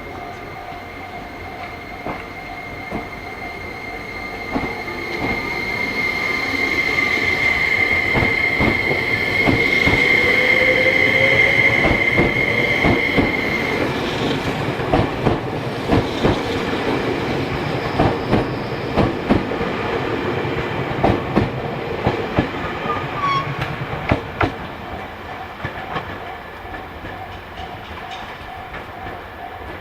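Train moving past at the station: a high steady whine with a slowly rising tone as it builds up, then from about halfway a run of irregular wheel clacks over rail joints and points, fading near the end.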